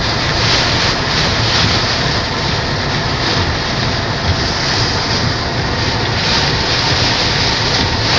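Heavy rain and strong wind in a storm: a loud, steady rush of noise with a rumbling low end.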